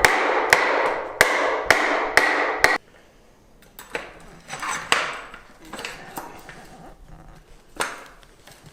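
Hammer blows driving a headset crown race onto a bicycle suspension fork: about six evenly spaced, ringing metal strikes roughly half a second apart over the first three seconds. These are followed by quieter handling of metal parts with a few lighter knocks.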